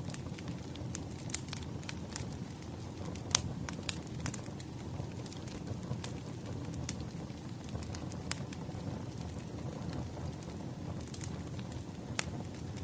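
Wood fire crackling: a steady low rumble of burning logs with scattered sharp pops, two louder pops about three and four seconds in.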